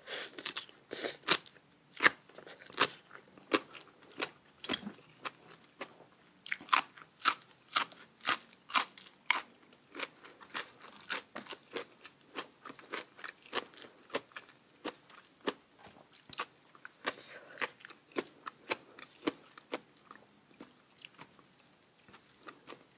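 Close-miked chewing of crisp food: a steady run of sharp crunches, about two or three a second, loudest around a third of the way in.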